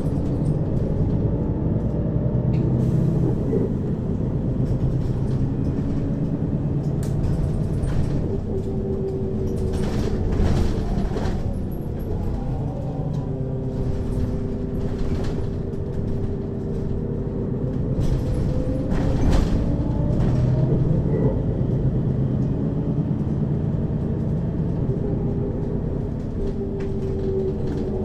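Interior running sound of a 2003 Mercedes-Benz Citaro city bus, heard from above the second axle. The engine and ZF Ecomat automatic gearbox hum rises and falls in pitch as the bus pulls away, shifts and slows, with a few short knocks along the way.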